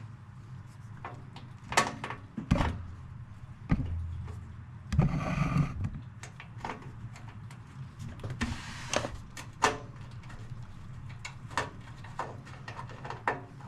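Clicks and knocks of screws, tools and metal panels being handled while a stereo unit is disassembled, with two short scraping or whirring stretches, about four and nine seconds in.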